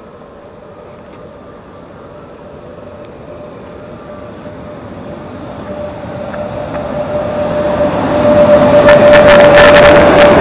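VR Sr1 electric locomotive hauling a commuter train into the station, growing steadily louder as it draws alongside at close range. A steady whining tone runs throughout, and a run of sharp clacks comes near the end as the locomotive passes.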